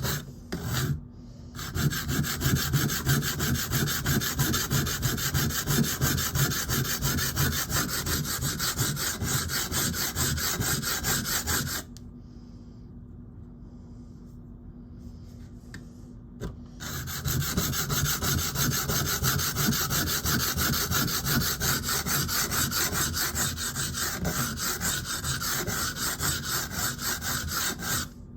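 Knife steel being ground against a wet Atoma 140 diamond plate in fast back-and-forth strokes, taking metal off to reshape a damaged tip. The scraping stops for about five seconds around the middle, then starts again.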